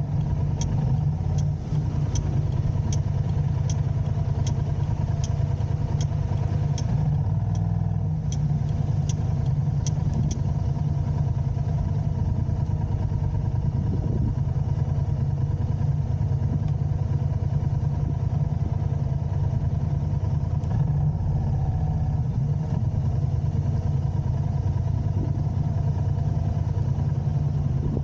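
A car running on city streets: a steady low engine and road rumble. For the first ten seconds or so there is a regular light ticking, about one and a half ticks a second, which then stops.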